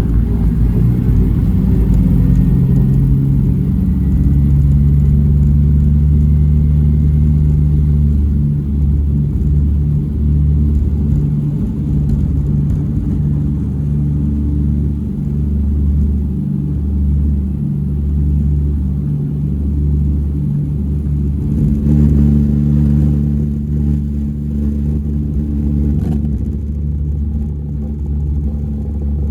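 Twin Pratt & Whitney R-1830 radial engines of a Douglas DC-3 running steadily at power. The deep drone has a slow, uneven pulsing beat as the two engines run slightly out of step.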